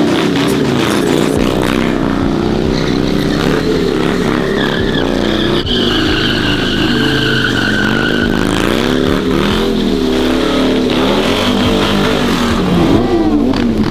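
A car engine revving hard, its pitch rising and falling, while the tires spin and squeal for several seconds in the middle.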